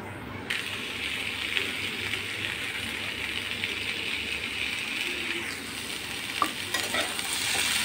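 Ivy gourd, potato and onion sizzling in hot oil in a kadhai while being stir-fried. The sizzle comes up sharply about half a second in and holds steady, with a couple of short spatula knocks against the pan near the end.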